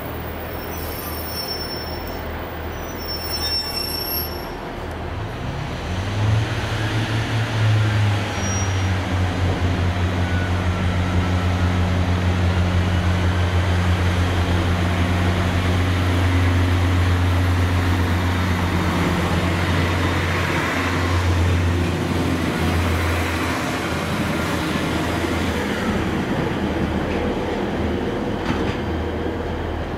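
Train passing, its engine giving a steady low drone that builds about six seconds in, holds, and fades away near the end.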